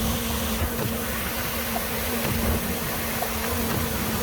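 Grain-unloading machinery running steadily: the tractor-driven grain auger and bin spinner/fan. It makes a constant drone with a steady hum under it.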